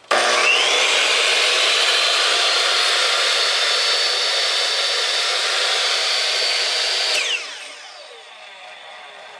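Craftsman 12-inch compound miter saw switched on, its motor and blade spinning up to full speed at once and running steadily for about seven seconds, then switched off and winding down with a falling whine.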